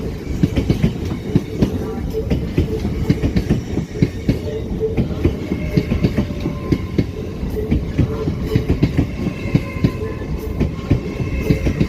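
LNER Class 801 Azuma electric train moving through the station, its wheels clattering over rail joints and pointwork in a fast run of clicks under a steady rumble.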